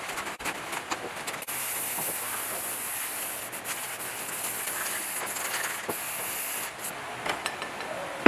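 A steady hiss, brightest in the middle of the stretch, with scattered small clicks and taps through it.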